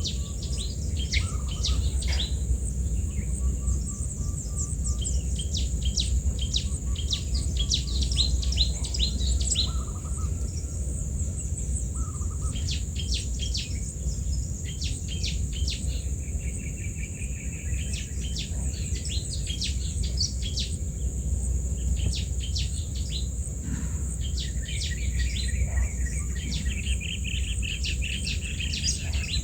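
Birds chirping in quick runs of short high notes, coming in clusters every few seconds, over a steady high-pitched insect hum and low background noise.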